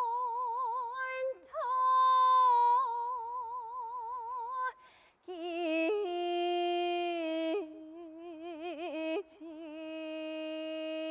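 A woman singing jeongga, Korean classical lyric song, in a single voice: long held notes with a slow, wide vibrato, each note bending at its end. There is a brief pause about five seconds in, after which the melody continues on lower notes.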